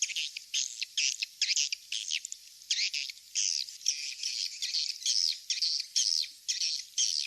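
Recorded swiftlet calls played as a lure sound: a quick string of high chirps and twitters, a few each second with short breaks between them.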